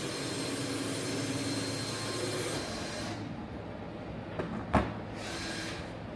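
Passenger train running, heard from inside a carriage as a steady rumble that softens about halfway through. A sharp click comes near the end, followed by a short hiss of air.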